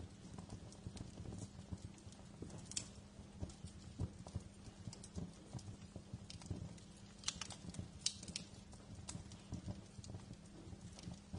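Wood fire crackling in a fireplace: irregular snaps and pops over a low steady rumble, with a few louder pops around seven to eight seconds in.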